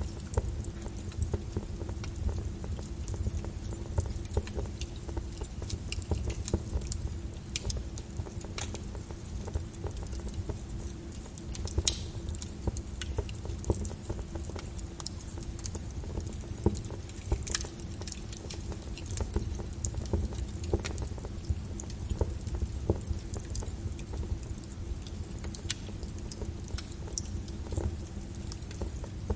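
Wood fire in a fireplace crackling, with irregular sharp pops and snaps over a low rumble of the flames. One pop about twelve seconds in is louder than the rest. A faint steady hum runs underneath.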